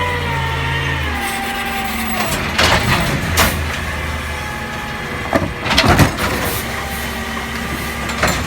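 Garbage truck engine running, its pitch dropping in the first second, with a string of loud clanks and bangs, the loudest about six seconds in.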